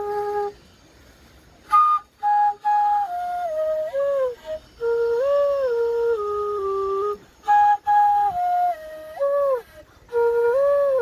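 Background music: a solo flute melody of held notes with bends up and down in pitch, broken by short pauses.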